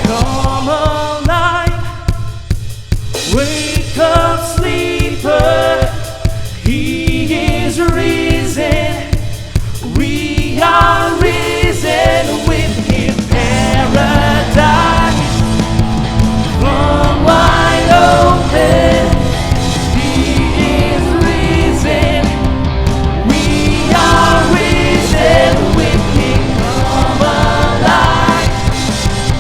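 A worship song sung with a backing band: lead vocals, with others joining in, over bass and drums.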